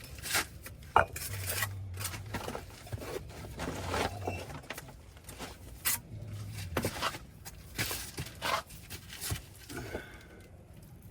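Bricklaying trowel scraping and clinking against brick and mortar as a replacement brick is set into the wall: a string of irregular scrapes and sharp taps, the sharpest about a second in, tailing off near the end.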